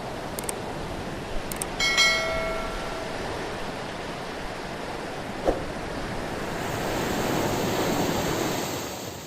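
Steady rushing noise of surf, swelling louder about seven to eight seconds in. A short ringing ping sounds about two seconds in, among a few faint clicks.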